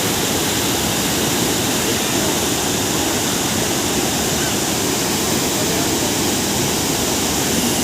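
Dhuandhar Falls on the Narmada River, a loud steady rush of falling water.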